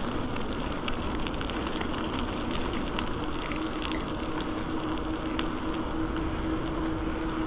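A bicycle rolling along a path: steady tyre and air rumble with light scattered ticking, and a steady low hum that grows stronger in the second half.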